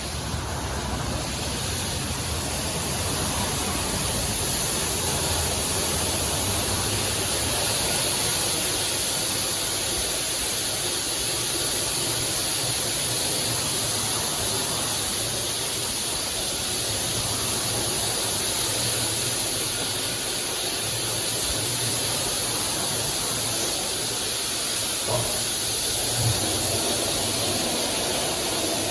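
PDQ LaserWash 360 touchless car wash spraying water onto a car: a steady, hissing rush of spray, with two small knocks near the end.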